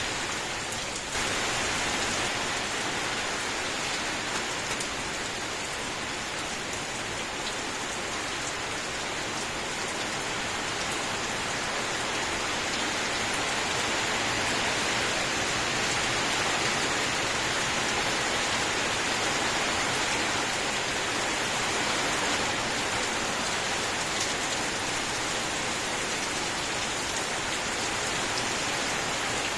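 Steady rain falling: an even, continuous hiss of rain with no breaks.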